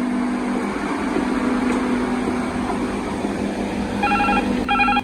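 Steady hum of engine-room machinery, then a telephone rings in two short bursts near the end.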